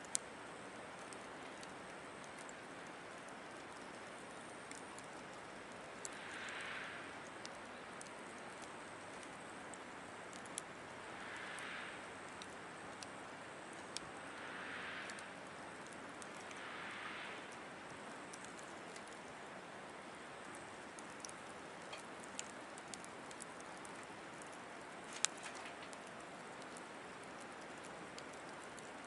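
Wood campfire in a Picogrill 760 fire stand crackling over a steady hiss, with scattered sharp pops and one louder pop about 25 seconds in. Four soft swells of noise, each about a second long, come and go in the middle.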